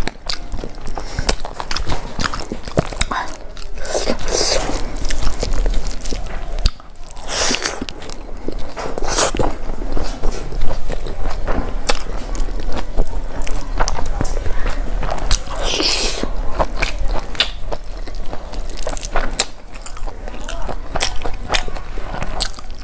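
Close-miked chewing and biting into fried chicken and rice eaten by hand, a steady run of wet mouth clicks and crackles.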